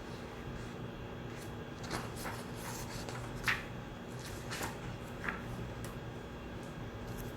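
Study room ambience: a steady low hum with a few soft clicks and rustles from about two to five seconds in, the sharpest click near the middle.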